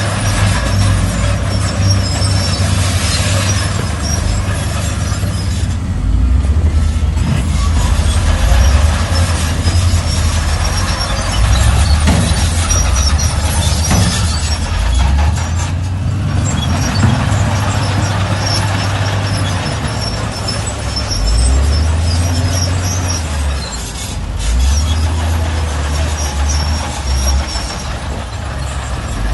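Shantui bulldozer's diesel engine working hard, its low note rising and falling repeatedly as it pushes dirt, with intermittent high squeaks.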